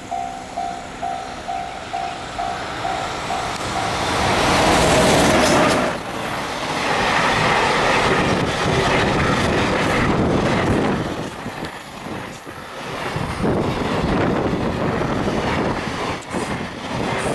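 A level crossing warning bell dings in a steady repeated rhythm. About four seconds in, an EF210 electric locomotive hauling a long container freight train passes close by and drowns it out, and the container wagons roll past with wheels clattering on the rails and a thin high squeal at times.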